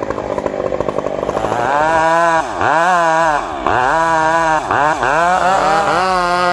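Chainsaw engine running, pulsing at a lower speed at first, then revving high with its pitch dipping and recovering three times.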